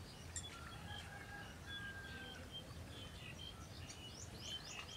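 Wild birds calling: scattered chirps and whistles, one longer level whistle, and a quick run of short sweeping notes near the end, over a faint low rumble.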